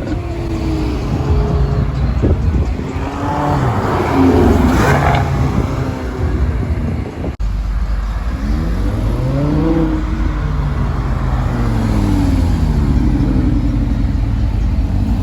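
Sports car engines revving and accelerating, the engine note rising and falling again and again as the cars pull away and shift. About seven seconds in the sound breaks off abruptly and another stretch of engine noise begins.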